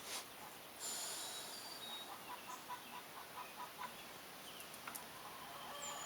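Faint birdsong: a quick run of short repeated notes, about five a second, with scattered high chirps and thin whistles. A brief hiss about a second in.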